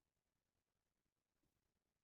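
Near silence: only a faint noise floor.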